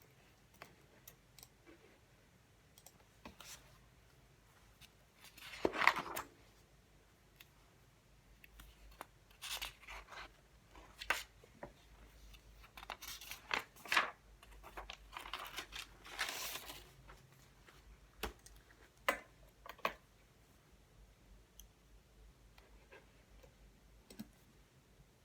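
Paper being handled: a few short rustles, the loudest about six seconds in and others between ten and seventeen seconds, mixed with scattered small clicks and taps.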